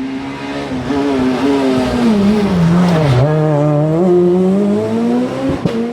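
Rally car engine at full volume: the revs hold, drop for about two seconds, then climb steadily again as the car pulls away. There is a sharp crack about three seconds in and another near the end.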